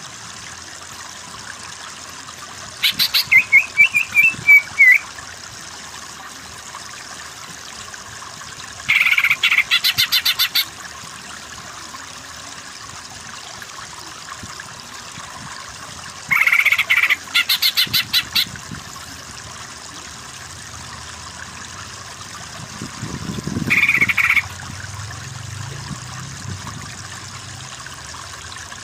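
Greater green leafbird (cucak ijo) giving four bursts of rapid, chattering repeated notes, the first ending in a short warbling phrase, over a steady background of running water.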